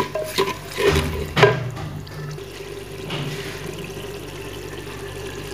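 Onion, garlic-ginger paste and ground spices sizzling in hot oil in a cooking pot, with a few knocks of the stirring spoon against the pot in the first second and a half, then a steady sizzle as the masala fries.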